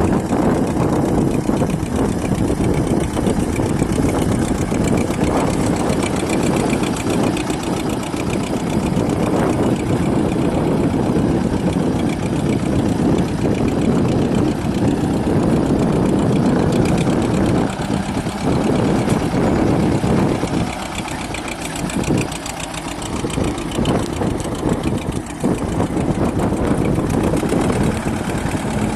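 Escort 335 tractor's diesel engine running steadily, easing off briefly about three-quarters of the way through.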